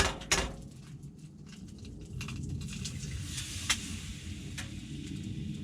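Bacon and eggs frying in a pan, a steady sizzle that grows louder from about two seconds in, after a couple of sharp knocks near the start.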